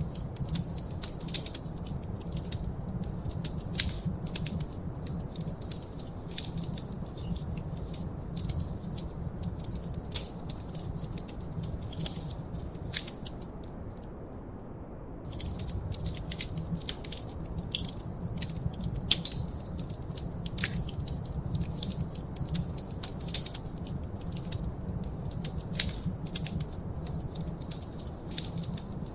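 Wood fire crackling in a fireplace: a steady low rumble of flames with many irregular sharp pops and snaps from the burning wood. The crackles stop for about a second midway.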